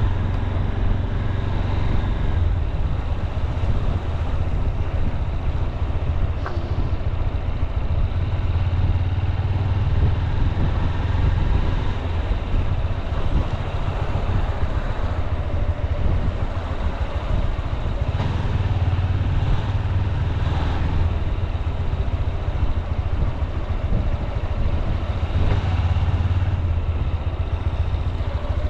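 Honda CB200X's single-cylinder engine running as the motorcycle cruises, a steady low drone that swells and eases a few times.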